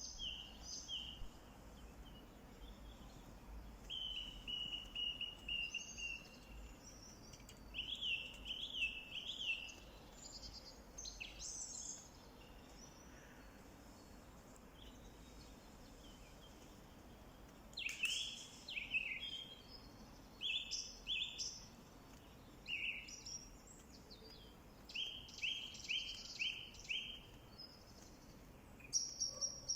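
Small songbirds singing: runs of short, quickly repeated down-slurred chirps, with a quiet spell of about five seconds in the middle, over a faint steady background hiss.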